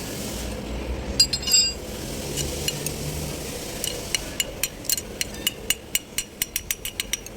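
Metal tools and parts clinking: a few clinks about a second in, then a run of light metallic ticks that come quicker and quicker toward the end.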